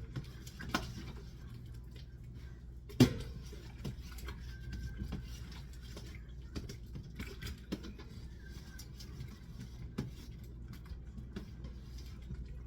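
Scattered kitchen clicks and knocks over a steady low hum, with one sharp knock about three seconds in.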